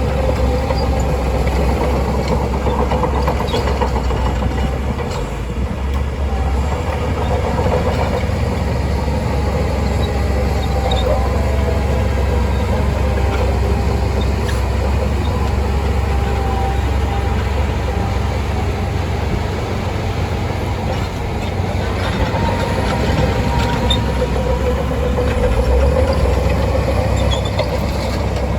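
Shantui DH17C2 crawler bulldozer working, its diesel engine running steadily under load with a low rumble. A pitched whine from the machine wavers up and down over it.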